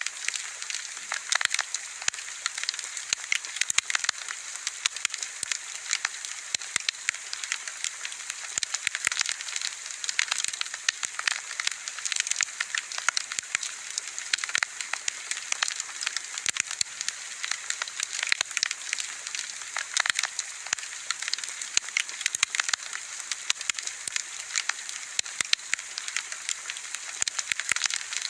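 Wood bonfire burning and crackling: a steady hiss with frequent sharp pops and snaps.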